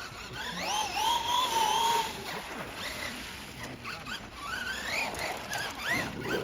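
Electric drive of a Losi Grave Digger RC monster truck on a 3S battery, whining as it is throttled: a high whine rises and wavers, loudest through the first two seconds. Shorter rising whines follow about four to six seconds in.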